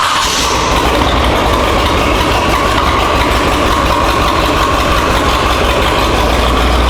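Loud vehicle engine, just started, running steadily at idle; its low rumble gets stronger near the end.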